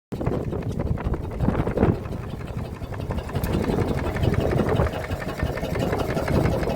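Stationary engine running steadily, a dense, even, rapid firing rhythm.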